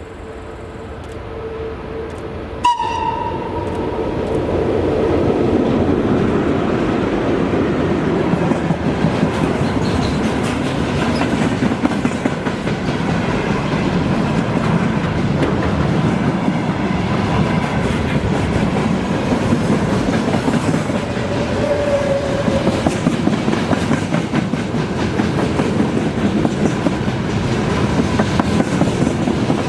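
Freight train running past, its wheels clattering steadily over the rail joints. A short, sharp horn blast comes about three seconds in, just as the train noise swells.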